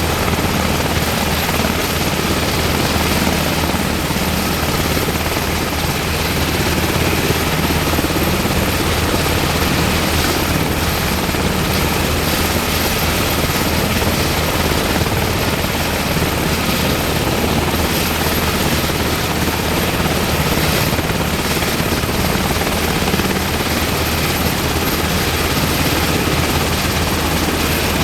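UH-60M Black Hawk helicopter running steadily: the loud, even roar of its twin turboshaft engines and main rotor, with a thin high whine on top.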